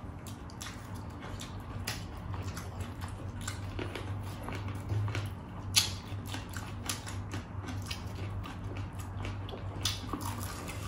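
Close-miked eating sounds: crunching bites and chewing of crispy fried chicken, with many irregular sharp crackles and clicks, the loudest about six seconds in, over a steady low hum.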